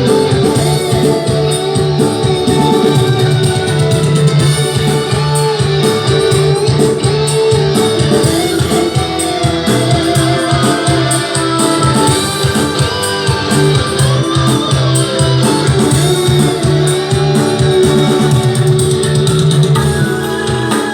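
Recorded music with guitar and a heavy bass line, played loud and steady through an 8-inch speaker under test.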